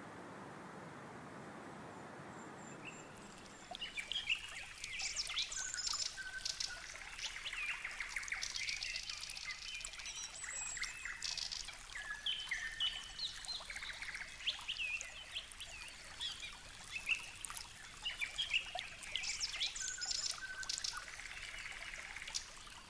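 Many small birds chirping and calling at once, a dense chatter of short, quick notes that starts about three and a half seconds in after a soft, steady rushing sound.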